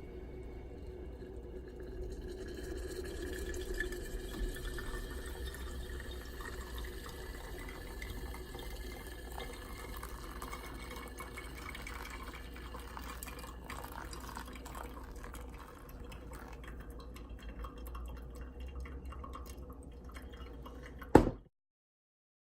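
Hot water pouring and trickling into a pour-over coffee dripper, a steady liquid sound with a faint rising pitch as it fills. Near the end a single sharp click, then the sound cuts off abruptly.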